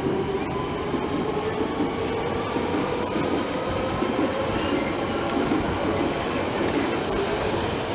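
London Underground Central Line train pulling away from the platform, its traction motors whining with a slowly rising pitch over the rumble of wheels on the rails, with a brief high wheel squeal near the end.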